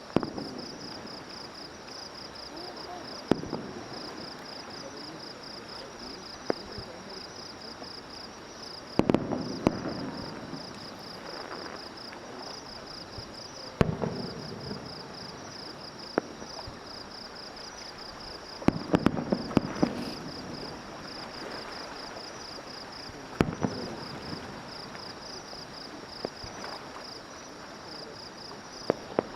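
Fireworks shells bursting every few seconds, some as single bangs and some in quick clusters, each followed by a rumbling echo and crackle. Steady rhythmic insect chirping runs underneath.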